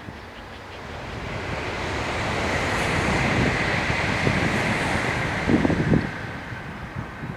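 Shinkansen bullet train passing at high speed: a rising rush of air and running noise with a steady high whine, then gusts buffeting the microphone near the end.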